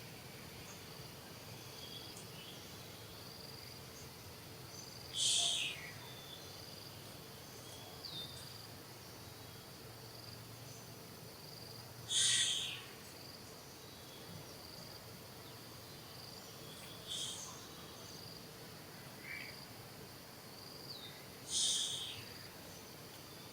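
A steady high insect drone, with four short, high-pitched animal calls breaking over it at intervals of about five seconds and a few fainter chirps in between.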